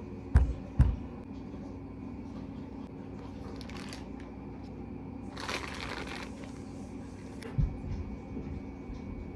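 Two sharp thumps under a second in, a brief rustle like paper or cloth about halfway through, and another thump later, over a steady low hum.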